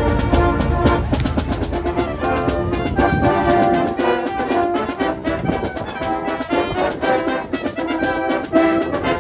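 Brass-led music, trumpets and trombones playing a melody over drums.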